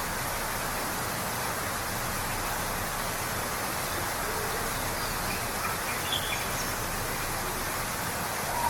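Waterfall rushing steadily, with a few faint, short bird calls over it.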